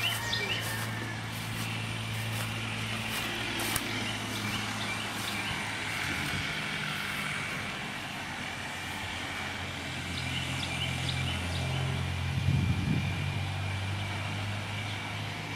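A vehicle engine running steadily with a low hum that shifts slightly partway through, with birds chirping.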